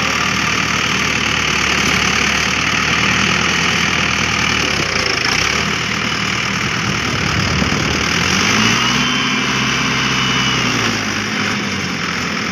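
Tractor engine running steadily under load, revving up about eight seconds in, holding, then dropping back near the end.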